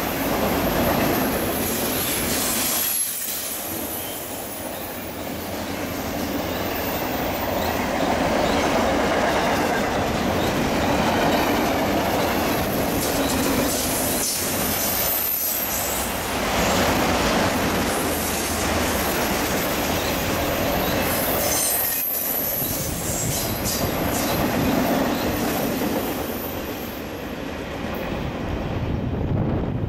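Double-stack intermodal freight train's well cars rolling past on a curve: a steady rumble of wheels on the rails, with thin high-pitched wheel squeal near the start and again about two-thirds through.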